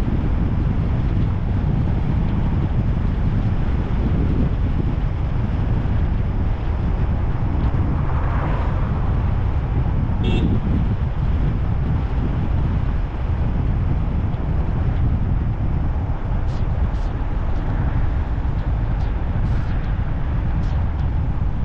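Car driving: a steady low rumble of engine, tyres and wind. A brief high chirp comes about ten seconds in, and a few faint ticks near the end.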